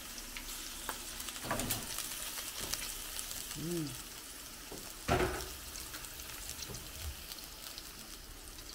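Prawns and sliced meat sizzling with a fine, steady crackle in hot oil with garlic and ginger in a stainless steel pan. A knock of something against the pan about a second and a half in, and a louder sharp knock about five seconds in.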